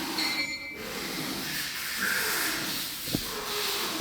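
Steady hissing workshop machinery noise, with a single short knock about three seconds in.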